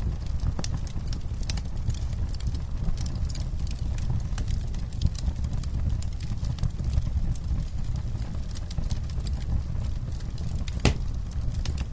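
Campfire crackling: scattered sharp pops and snaps over a steady low rumble, with one louder pop near the end.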